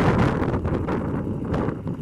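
Wind buffeting the microphone, a rough rumble with crackles.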